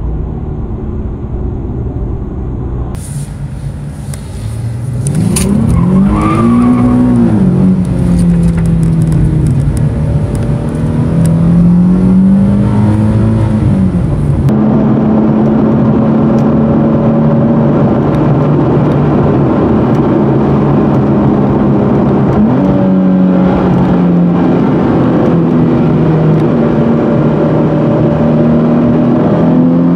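Nissan Z car's V6 engine heard from inside the cabin while driving, its pitch climbing and falling back several times as it accelerates and eases off, with a steady drone between and road noise underneath. The sound changes abruptly about three seconds in and again about halfway through.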